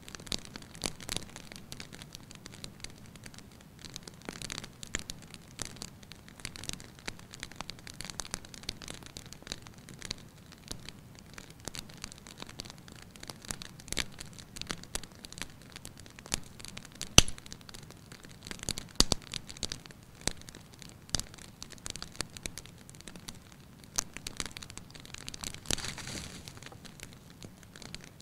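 Wood fire crackling in a fireplace: irregular small crackles and snaps over a soft hiss, with one sharp, louder pop a little past the middle.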